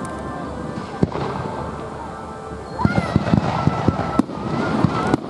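Fireworks display: a continuous rumble of aerial bursts with a sharp crack about a second in, then from about three seconds in a dense run of crackling pops, with a thin high tone running through it.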